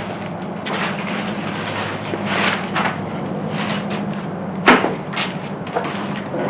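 Hand work on an engine's cylinder head and bolts: a few short knocks and scrapes of metal parts being handled, the sharpest about three-quarters of the way through, over a steady low hum.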